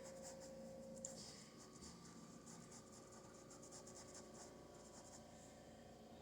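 Faint, repeated scratchy strokes of a paintbrush working acrylic paint on canvas, over a low steady hum.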